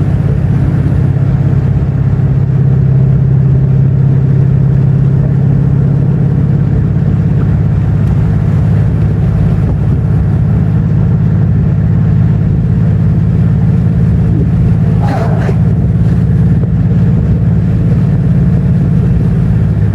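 Dodge Charger's 5.7 L Hemi V8 running at a steady cruise: an even low drone with road noise underneath. A short high sound rises and breaks off about three-quarters of the way through.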